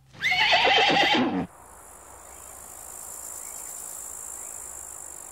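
A pony whinnies loudly once for about a second and a half, its pitch wavering. After it stops comes a steady, quieter, high-pitched insect chirring.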